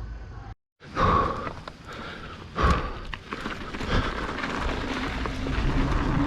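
Mountain bike being ridden down a rough trail: a steady rush of wind and tyre noise with the bike rattling, and several loud knocks from hits on the ground, the first about a second in after a brief dropout.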